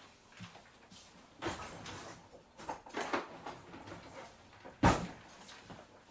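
Kitchen work sounds while a salad is made: items handled and set down in a few short clatters, then one sharp knock near the end, the loudest sound.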